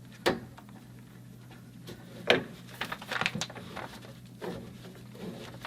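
Mini tubing cutter being fitted onto and worked around copper pipe: scattered short metallic clicks and scrapes, the sharpest about two seconds in and a quick cluster just after.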